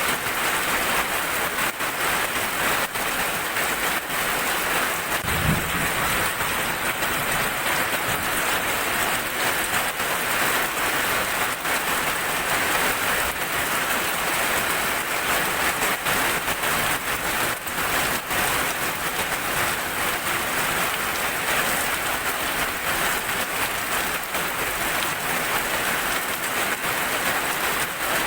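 Heavy rain falling steadily onto a surface, with many individual drops spattering close by. There is a brief low thump about five seconds in.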